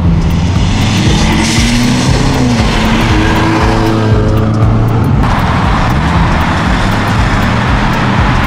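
A car accelerating hard on the road, its engine revving up through the gears, the pitch climbing and dropping at each shift, then settling into a steadier engine drone with tyre noise.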